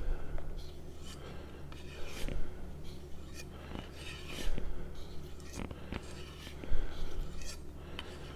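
Stainless steel knife blade drawn across a strop in a series of uneven, short rubbing strokes, stropping off the edge at the end of sharpening.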